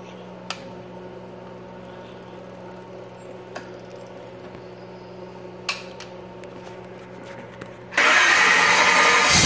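A steady low hum with a few faint clicks, then, about a second and a half before the end, a freshly built Chevy 350 small-block V8 with a solid-lifter cam fires up suddenly and runs loud.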